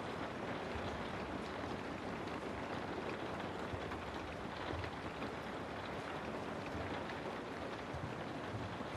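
Recorded rain ambience: a steady, even hiss of rainfall.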